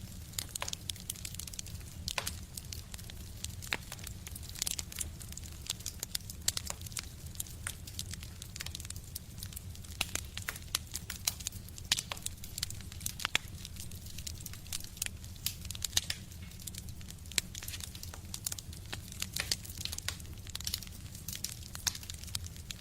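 Wood fire burning in a stove, crackling with many sharp, irregular pops over a steady low rumble.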